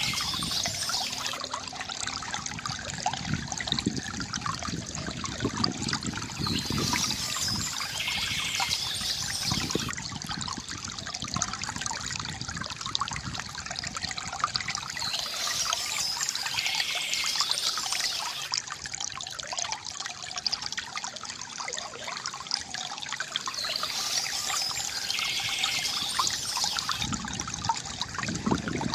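Water trickling and gurgling steadily from a bamboo fountain, with brief higher-pitched bursts about every eight seconds.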